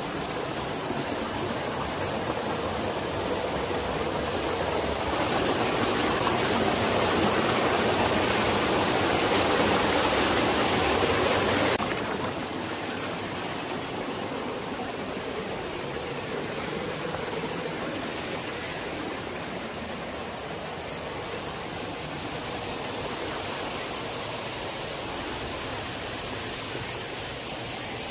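Steady rush of flowing stream water. It grows louder for a few seconds, then drops sharply about twelve seconds in and carries on more softly.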